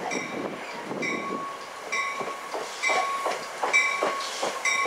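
NJ Transit passenger train approaching the station, its wheels clattering on the rails, while a railroad crossing bell rings at a steady beat of about one strike a second.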